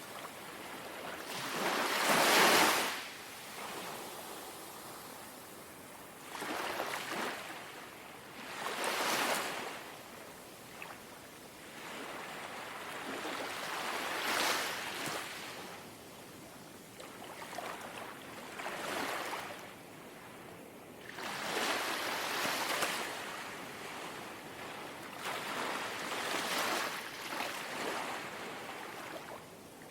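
Small, calm sea waves lapping on the shore: washes of surf swell up and fade away every few seconds, about eight in all, the loudest about two seconds in.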